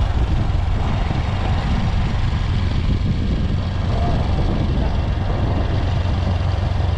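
Honda CRF150L motorcycle's single-cylinder four-stroke engine running at a steady speed: a constant low drone under an even hiss of wind and road noise.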